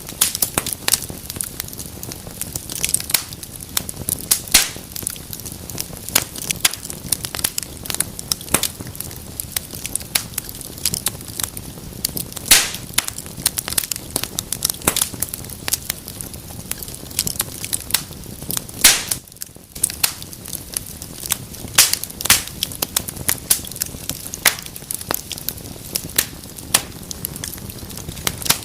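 Wood fire crackling in a fireplace: a steady flow of irregular sharp pops and snaps over a soft hiss of burning.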